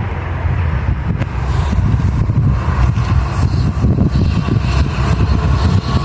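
Railway train passing close by: a steady, heavy low rumble with a few short knocks.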